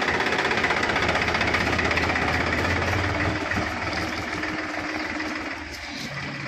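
Powertrac tractor's diesel engine running with a rapid, even knock, growing quieter from about three seconds in.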